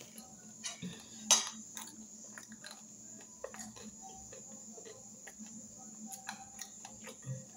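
A person chewing food, with faint irregular mouth clicks and one louder click about a second in, over a steady high hiss.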